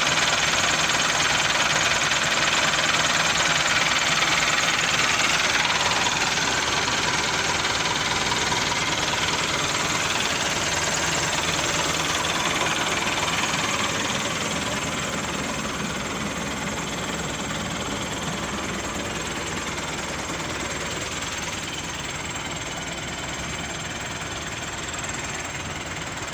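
Massey Ferguson tractor's diesel engine running steadily, growing gradually quieter over the second half.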